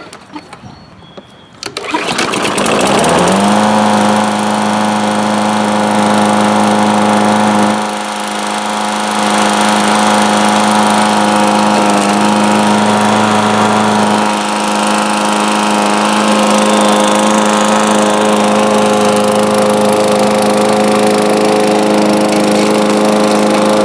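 Lawn mower engine, fitted with a replacement carburetor, starting on the first try about two seconds in. It quickly rises to speed and then runs steadily, showing the carburetor swap has cured its failure to start.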